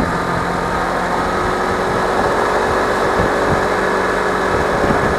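Suzuki V-Strom 250 motorcycle's parallel-twin engine running steadily, its even note sitting over a dense rushing hiss.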